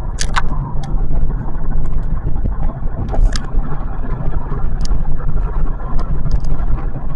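Steady low rumble of road and engine noise inside the cabin of a moving 2025 Kia K4 GT-Line, a 2.0-litre Smartstream four-cylinder car, with scattered light clicks.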